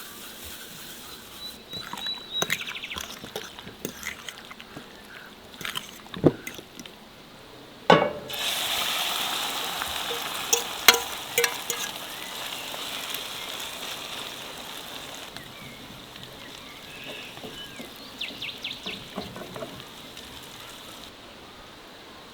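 Cooking in a pan: scattered knocks and clinks of utensils, then a sharp knock about eight seconds in followed by a hiss that fades over several seconds, as food or liquid hits the hot pan and sizzles.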